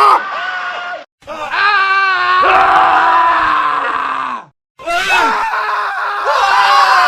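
Men screaming in a cut-together sequence: a scream breaks off at a silent cut about a second in, a long scream follows and slides down in pitch at its end, and after a second brief silent cut another scream begins.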